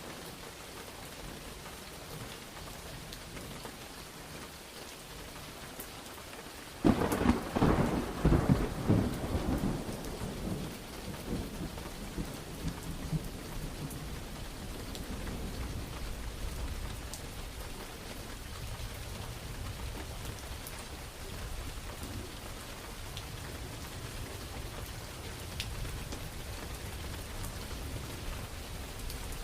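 Steady rain falling, with a thunderclap that breaks suddenly about a quarter of the way in and rolls on as a rumble, fading over several seconds while the rain goes on.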